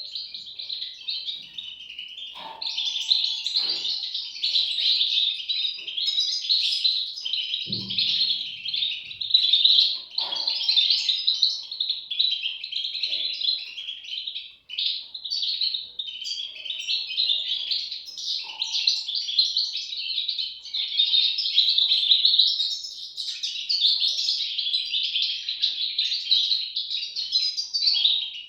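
European goldfinch chicks chirping continuously in a dense, high-pitched chatter, with a brief low thump about eight seconds in.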